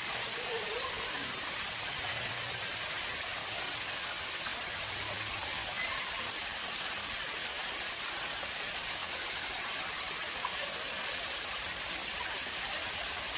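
Water flowing steadily into an artificial pond: a continuous, even splashing rush. A few faint, short chirps sound over it.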